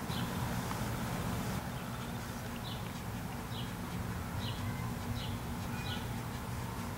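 A bird chirping again and again in the background, short high chirps a little under a second apart, over a steady low outdoor rumble.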